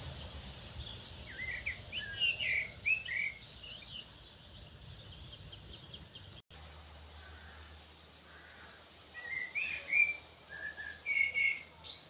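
Small songbirds chirping in quick, high runs of short notes, in two bouts: one about a second in and another in the last few seconds.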